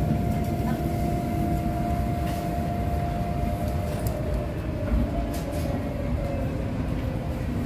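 Ride inside a moving electric passenger train: a steady low rumble of wheels on rails, with a thin motor whine that slowly falls in pitch.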